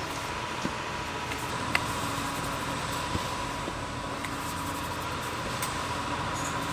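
Steady mechanical hum and hiss with a thin, high steady whine, broken by a few light clicks, one of them sharper a little under two seconds in.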